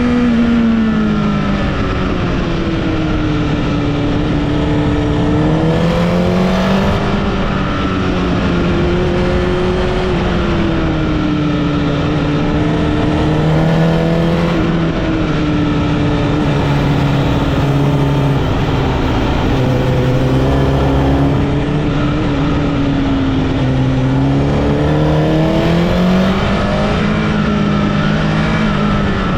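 Honda CBR1000RR (SC77) inline-four engine under way, its pitch rising and falling every few seconds as the bike accelerates, shifts gear and backs off between bends. A steady wind and road rush runs underneath.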